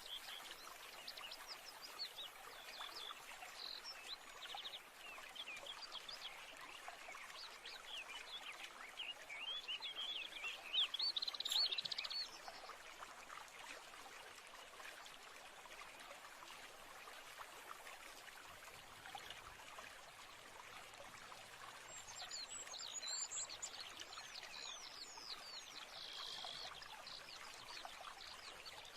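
Nature ambience: a stream running steadily while small songbirds chirp and trill over it. The birdsong is busiest about ten seconds in and again in the last third.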